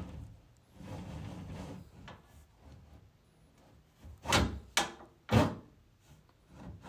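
Handling noise from an inspection camera being fed up a flexible vinyl dryer duct: rubbing and scraping, then three sharp knocks within about a second, a little past halfway.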